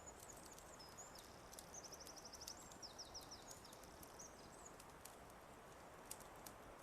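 Faint birdsong, a few whistled phrases and a rapid trill over the first few seconds, over a steady hiss with scattered crackling clicks of a wood fire that stand out more near the end.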